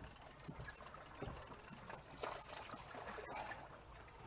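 Faint trickling and lapping of water around a small fishing boat, with small irregular patters.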